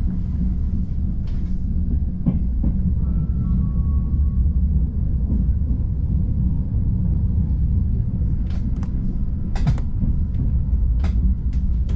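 Frecciarossa ETR 500 high-speed train running, heard from inside a passenger coach: a steady low rumble with a few sharp clicks and rattles in the second half.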